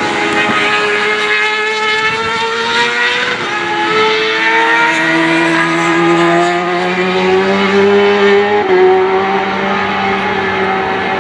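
Several racing motorcycles on the circuit at high revs, their engine notes slowly rising together, with a sharp drop in pitch about eight and a half seconds in as a bike shifts gear.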